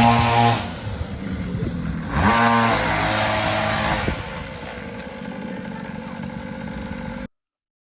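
Small 50cc pull-start pit bike engine revving up twice, then running steadily until the sound cuts off abruptly near the end.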